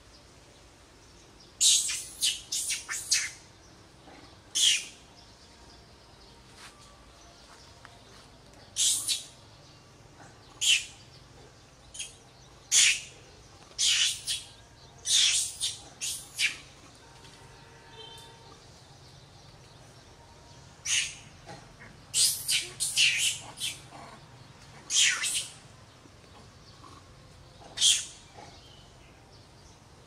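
Birds chirping: short, sharp, high-pitched calls, mostly in quick runs of two to five, repeated every few seconds.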